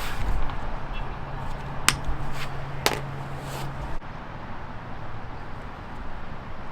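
Handling noise from hand work wiring up a motor, with two sharp clicks about a second apart, over a low steady hum that cuts off abruptly a little past halfway.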